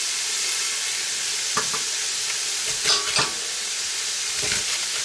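Chopped cabbage frying with a steady sizzle in a stainless steel pan, with a few knocks and scrapes of a serrated knife against the pan as the cabbage is cut up in it, two of them close together about three seconds in.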